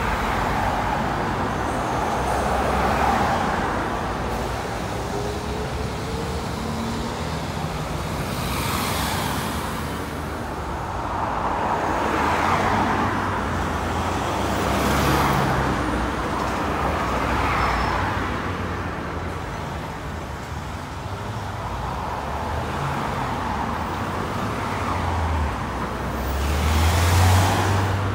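Road traffic: vehicles passing one after another, each rising and fading with tyre and engine noise, and a deeper, louder engine sound near the end.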